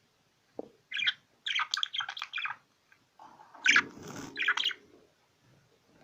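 Small cage birds chirping and twittering in two quick bursts, one about a second in and another a little past the middle, with a rougher, lower sound under the second burst.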